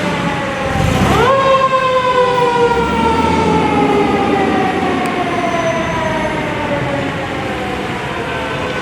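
Fire truck siren wailing: its pitch shoots up sharply about a second in, then slowly winds down, over the low rumble of the truck's engine.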